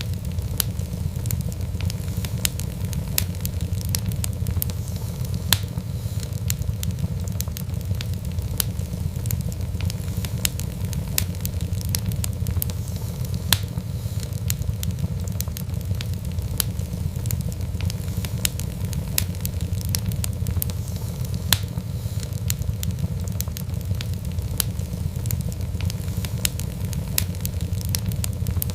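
Wood fire crackling: a steady low rumble of burning with frequent irregular sharp pops and snaps.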